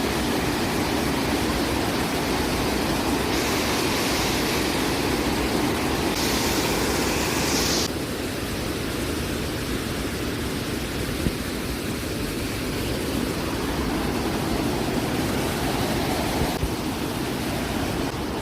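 Steady rushing roar of a large waterfall, with a brighter hiss for a few seconds and a slight drop in level about eight seconds in.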